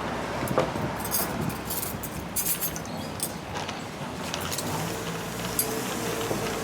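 Light clinking and rattling of small hard objects, in quick bunches about a second to three seconds in and a few more later, over steady café background noise.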